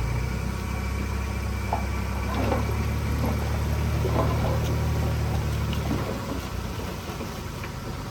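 Diesel engine of a heavy earthmoving machine running at a steady low pitch, with a few scattered clanks; it eases off a little near the end.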